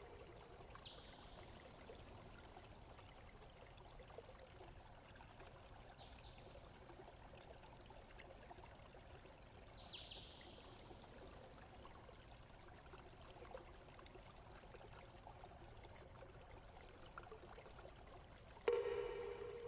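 A faint, steady trickle of running water, with a few short falling bird chirps and some high calls over it. Near the end a sudden loud ringing tone starts and fades.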